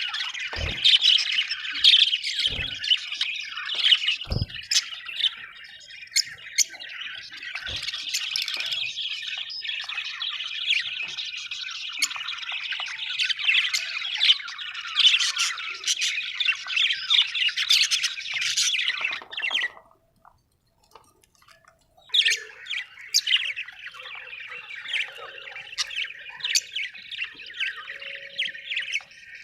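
Budgerigars chattering and warbling in a dense, rapid run of chirps and squawks, with a few low thumps in the first few seconds. The chatter breaks off for about two seconds some twenty seconds in, then starts again.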